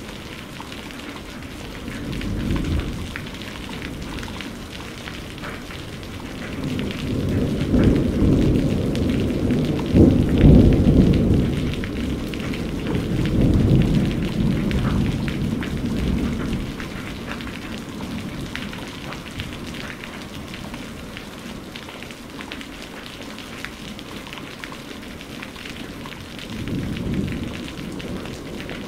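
Steady rain with rolling thunder: a short rumble about two seconds in, then a long rolling peal that builds from about seven seconds, peaks around ten seconds and dies away by seventeen, and another rumble near the end.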